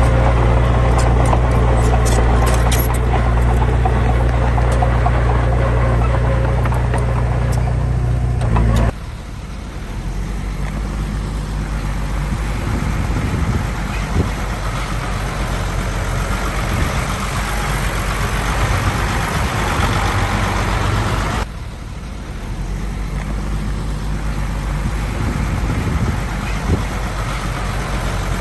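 Heavy diesel engine running with a steady deep hum. The sound cuts abruptly to other heavy diesel machinery running, about nine seconds in and again a little past twenty-one seconds.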